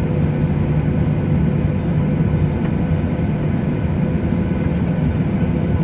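Inside the cabin of a Boeing 737-700, its CFM56-7B jet engines and the airflow making a loud, steady noise with a deep hum during departure.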